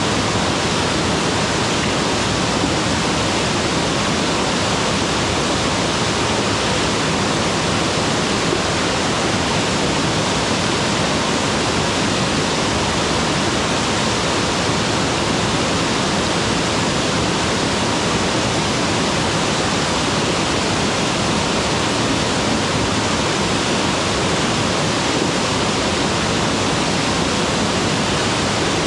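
Mountain waterfall, water falling and rushing in a steady, unbroken roar.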